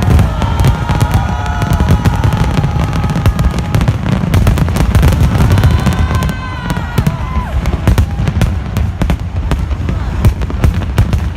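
Fireworks display: a dense, continuous barrage of bangs and crackling over deep booms.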